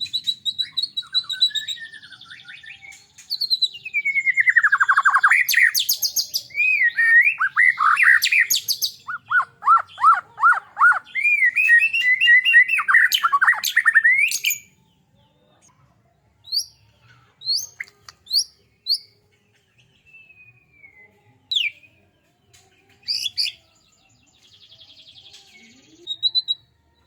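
White-rumped shama singing: a loud, rich run of whistles, downward sweeps and rapid trills for about fifteen seconds, then only short, scattered notes with pauses between them.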